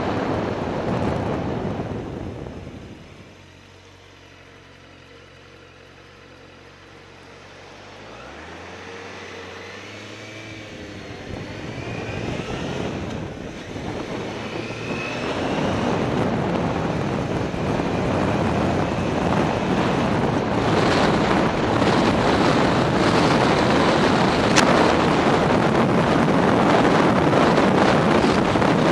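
Motorcycle ride heard from a helmet camera: the wind rush fades as the bike slows, the engine idles with steady low tones, then revs up and pulls away about eight seconds in. Wind noise on the microphone builds back up and stays loud as speed rises.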